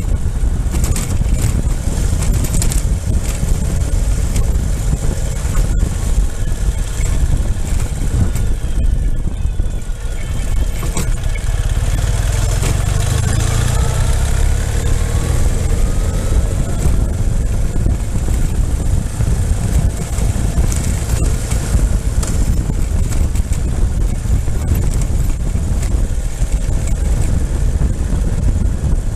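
Ural motorcycle's boxer-twin engine running steadily on the move, with wind noise on the microphone. About twelve seconds in, a whine rises in pitch for a few seconds.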